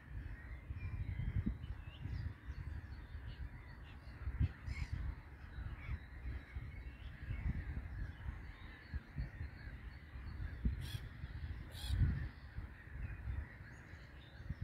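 Short, harsh bird calls: one about a third of the way in and two close together later on. They sound over a gusty low rumble of wind on the microphone.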